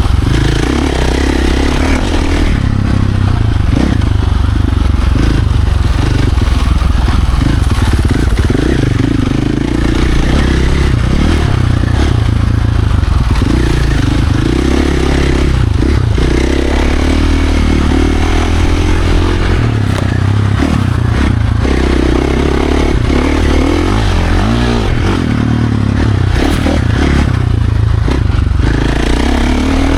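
Dirt bike engine running hard on a trail ride, revving up and down with the throttle throughout, over a constant rattling clatter.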